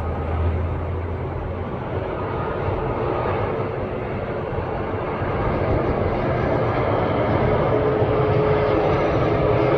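Rolls-Royce Trent 700 turbofans of an Airbus A330-200 landing: a steady jet roar that slowly grows louder, with a faint whining tone coming in near the end.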